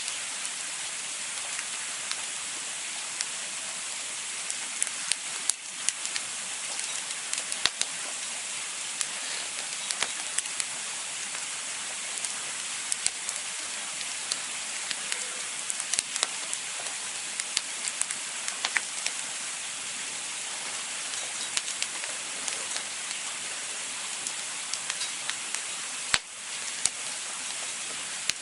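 Campfire burning with a steady hiss and frequent irregular sharp crackles and pops from the burning wood.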